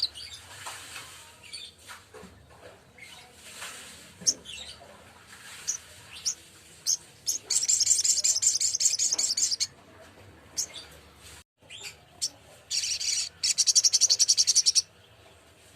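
Little spiderhunter (sogok ontong) calling: scattered sharp high chirps, then two long fast rattling trills, about seven seconds in and again near the end, which are the loudest parts.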